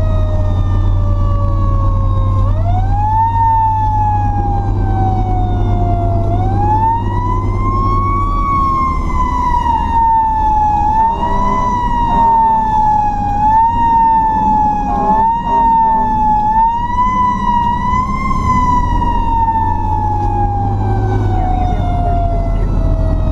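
Fire truck's mechanical Federal Q siren winding up and coasting down over and over. Its pitch climbs fast at each burst and sags slowly between them, ending in a long slow coast down. A steady low engine drone runs underneath.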